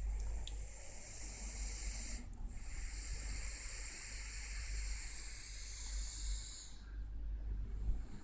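A dog snoring: long, hissing breaths that break briefly about two seconds in and again near the end, over a low rumble.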